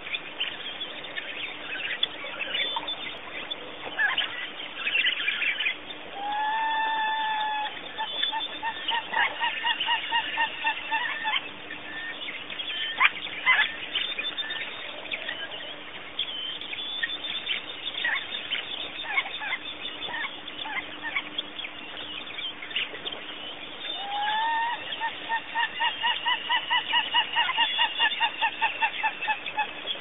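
Birds calling: two long series of evenly repeated calls, about three a second, the first starting about six seconds in and the second near the end, each opening with a sliding note, over scattered short chirps from other birds.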